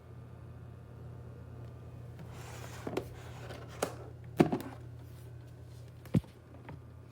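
A few sharp knocks and thumps, the loudest about halfway through, with a brief rustle just before them, over a steady low hum.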